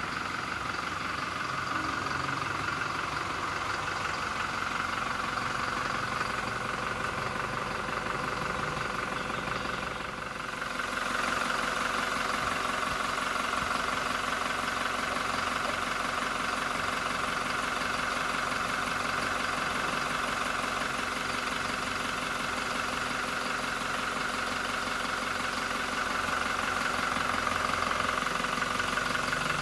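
Toyota Hilux's 2.4-litre 2GD-FTV four-cylinder VNT turbo diesel idling steadily. About ten seconds in the sound dips briefly, then carries on slightly louder.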